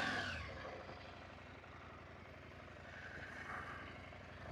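Adventure motorcycle engine running at low revs while riding, fairly quiet; the engine note eases off within the first second and picks up a little near the end.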